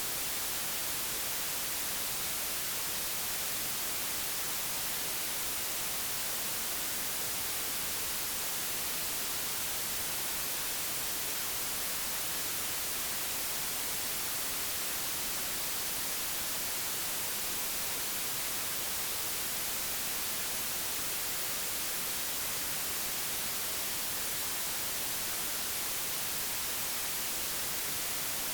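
Steady digitally generated white noise, an even hiss with no change.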